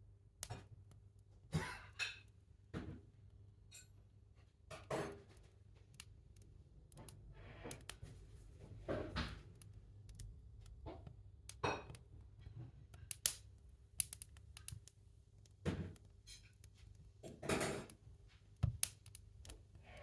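Firewood and kindling being handled and set into a wood stove: scattered knocks, light clicks and a few short rustling scrapes over a faint steady low hum.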